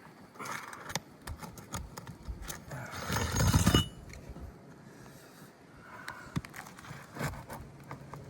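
Metal roofing tool scraping and clicking against asphalt shingles and nails while nails are worked out. About three seconds in there is a louder rasping scrape lasting under a second.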